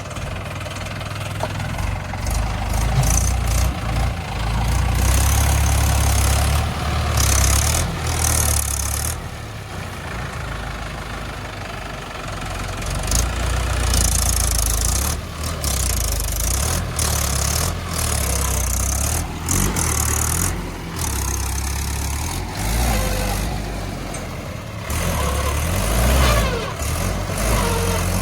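Mahindra 475 DI tractor's diesel engine running under load as it pulls a stuck, loaded trolley, the sound swelling and dropping again and again.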